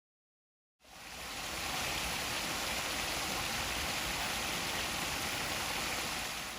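Steady rush of river water pouring over a small waterfall or weir. It starts abruptly about a second in after dead silence and eases slightly near the end.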